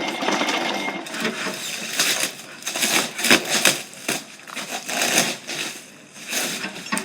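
Irregular knocks, scrapes and rustling of boxed goods being handled by hand.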